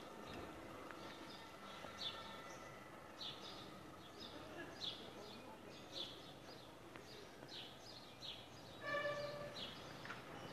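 Small birds chirping in short, sharp calls that repeat every half second or so, over a faint steady town background.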